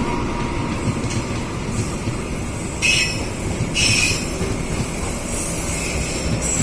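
Train running along the track through the station with a steady rumble, and two short high wheel squeals about three and four seconds in.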